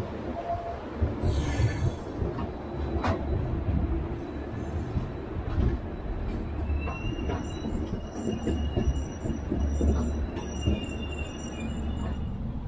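Double Decker Express passenger coach running on the rails: a steady low rumble with scattered sharp clicks. From about halfway in, a thin high wheel squeal joins it and runs until near the end, as the wheels take a curve.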